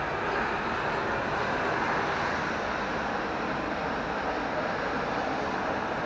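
Steady rushing noise of a moving vehicle, even and unchanging throughout.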